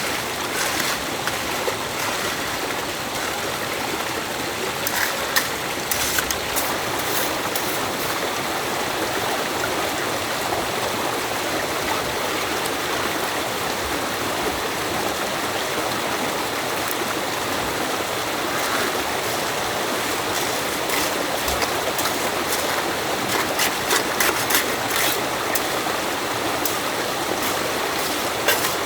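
Stream water running steadily, a dense rushing wash, with scattered short sharp clicks or knocks around five to seven seconds in and again near the end.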